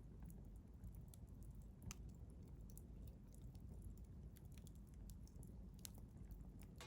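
Wood fire crackling softly in a stainless steel fire grill: scattered small pops and ticks over a low steady rumble of burning, with a sharper pop about two seconds in and another near the end.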